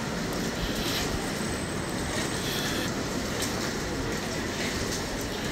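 Steady street noise on a rain-soaked avenue: an even hiss of rain over a low rumble, with no clear voices.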